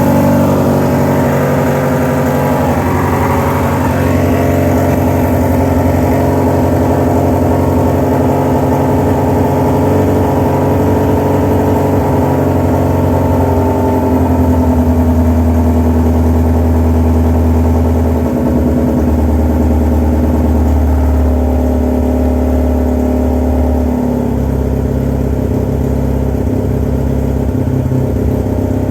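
Yamaha FZR600 motorcycle's inline-four engine running: the revs rise and fall in the first few seconds, then it settles to a steady idle whose pitch shifts slightly a few times.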